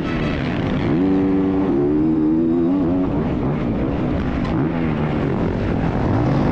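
Dirt bike engine running under throttle, its pitch climbing about a second in, dropping back near the three-second mark and climbing again after four seconds as the rider revs and shifts.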